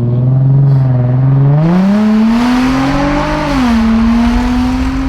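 Straight-piped Infiniti G35 coupe's 3.5-litre V6 being driven hard: the loud exhaust note climbs in pitch under acceleration, drops sharply about three and a half seconds in at an upshift, then holds steady as it pulls again.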